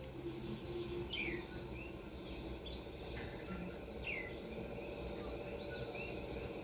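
Faint tropical rainforest ambience: scattered short bird chirps and whistles, a few falling in pitch, over a steady background din of insects.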